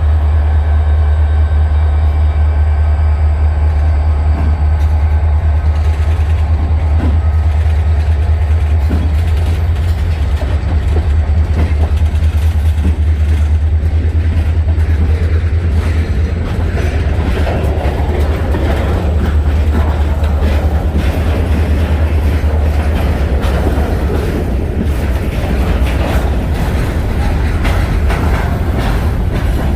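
Freight train cars rolling past, a steady low rumble with the wheels clicking over the rail joints.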